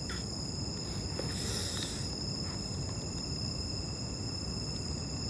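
Night insects, crickets among them, chirring steadily as a continuous high-pitched drone over a low background hiss. A brief rustle comes about a second and a half in.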